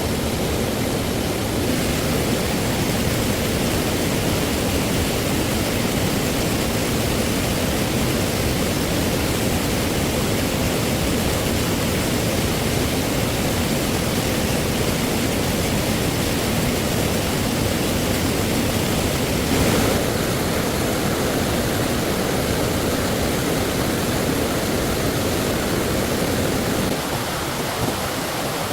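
Steady rushing of flowing stream water, a dense even hiss with no breaks, its low rumble thinning slightly near the end.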